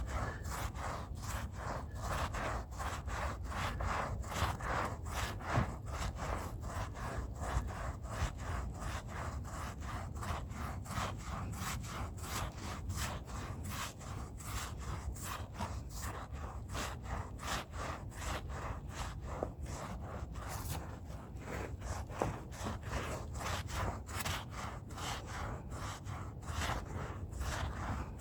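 Stiff hand brush scrubbing a rug's pile in fast back-and-forth strokes, about three to four a second, keeping an even rhythm.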